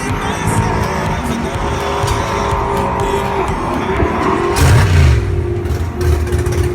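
Race car engine running, with a louder stretch about four and a half seconds in.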